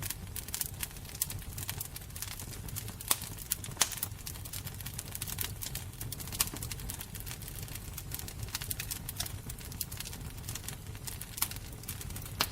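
Wood fire burning with a low steady rumble and irregular sharp crackles and pops, a few louder snaps among them.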